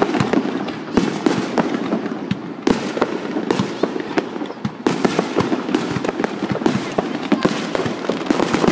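Fireworks finale: aerial shells bursting in a dense, rapid barrage of bangs and crackling, the reports coming many times a second with no gaps.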